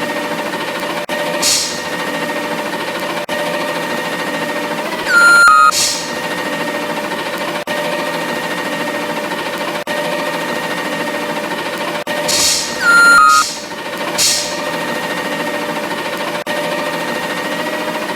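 Garbage truck running with a steady mechanical whine. Short hissing bursts break in several times, and a brief falling tone comes twice.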